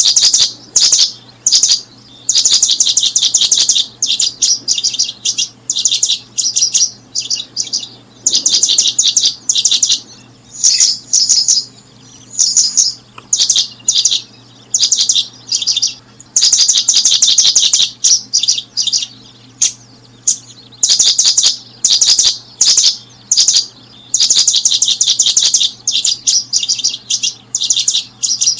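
Small birds chirping in loud, rapid trilled bursts, one after another with short gaps, over a faint steady low hum.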